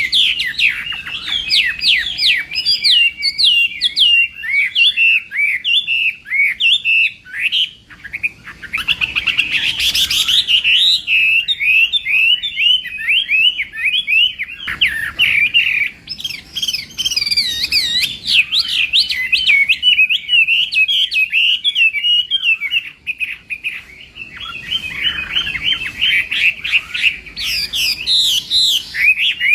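Chinese hwamei (melodious laughingthrush) singing a long, fast, varied song of whistled notes, with a few brief pauses. This is the loud, continuous 'fighting' song that keepers train the bird to deliver.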